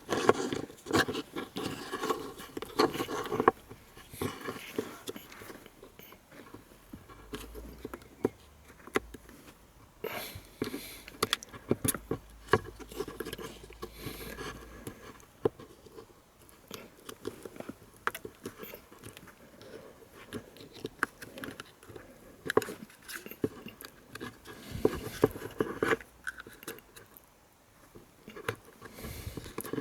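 Irregular small clicks, taps and scrapes of hand work with a flat screwdriver on the plastic housing and parts of a VW flap positioning motor (V71 recirculation flap actuator).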